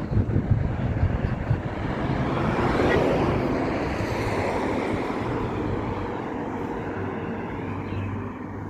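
A passing engine, most like a motor vehicle going by: a low hum and wash of noise that grows louder to a peak about three seconds in, then slowly fades away.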